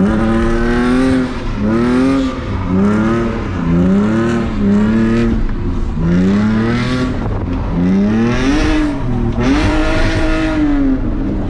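BMW E46's engine revved up and down again and again, about eight short swells in pitch, as the car is spun in circles on a wet surface.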